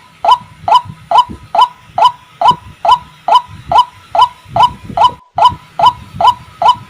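White-breasted waterhen (ruak-ruak) calling: a steady series of short, loud 'kwak' notes, a little over two a second, with a brief break about five seconds in. This is the repetitive call used as a lure to bring waterhens in.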